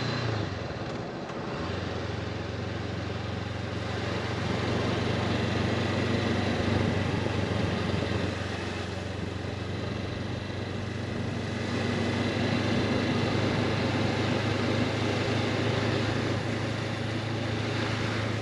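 Honda CB500X parallel-twin engine running steadily while riding, with wind noise on the microphone that swells and eases twice.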